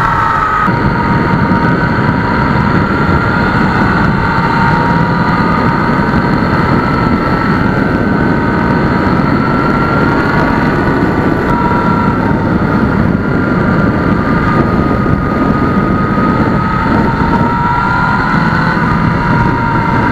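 A 2020 Yamaha MT-09's 847 cc three-cylinder engine running at a steady, even pace under loud, rushing wind noise on the microphone, as when riding at speed. Its pitch wavers only slightly, with no clear revving up or down.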